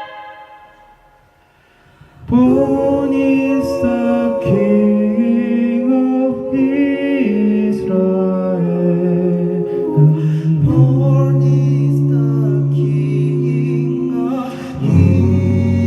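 A cappella vocal group singing in close harmony. A held chord fades out at the start, and after a brief pause the voices come back in about two seconds in with sustained chords over a low bass line.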